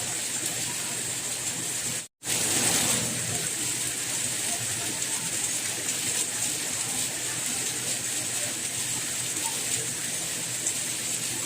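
Steady rain falling, an even hiss of water. About two seconds in it cuts out to silence for a split second and then resumes.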